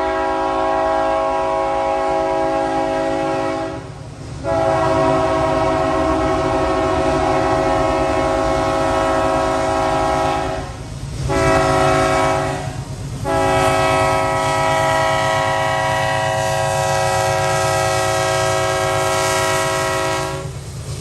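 Union Pacific freight locomotive's multi-chime air horn sounding the grade-crossing signal of long, long, short, long blasts, the last held for about seven seconds. A steady low rumble of the passing train runs underneath.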